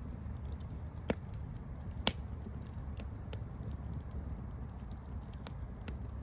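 Wood campfire crackling: scattered sharp pops and snaps over a steady low rumble of the flames, with two louder pops about one and two seconds in.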